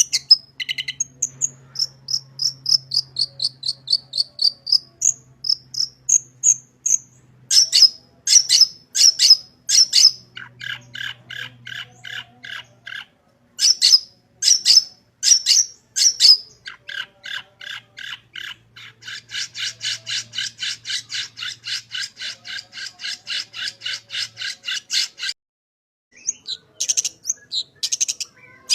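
Long-tailed shrike singing a varied song packed with mimicked phrases: strings of whistled gliding notes, loud sharp repeated calls, and long fast chattering trills, broken by a brief pause near the end.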